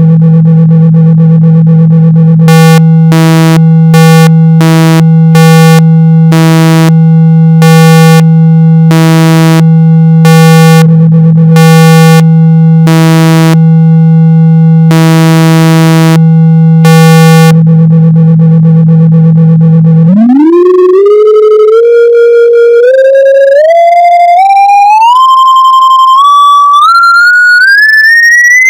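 Electronically generated speaker-cleaning tones: a steady low buzzing tone, broken for a while by a higher tone switching rapidly on and off. About two-thirds of the way in, a pure tone sweeps upward in small steps to a high whistle. Played loud, these tones vibrate the speaker cone to push water and dust out of the speaker.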